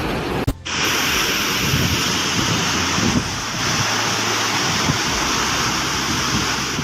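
An abrupt cut about half a second in, then a steady, even rushing noise, of the kind made by wind or surf.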